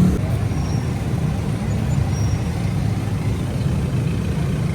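Steady low engine rumble of a road vehicle running.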